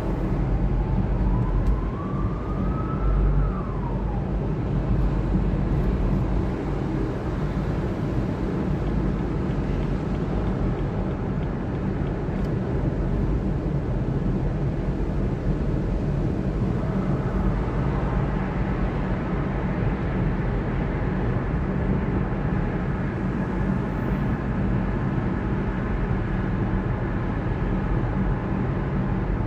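A car driving, with steady engine and road rumble. A faint tone rises and falls in the first few seconds, and about halfway through a faint higher whine joins and holds.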